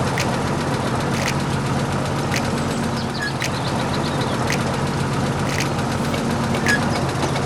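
Engine running steadily at idle, a low even hum with a short sharp tick about once a second.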